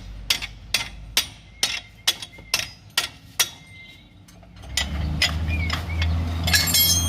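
Sharp metallic taps about two to three a second, a hand tool working on metal under the car, stopping after about three and a half seconds. About five seconds in, a low steady drone starts.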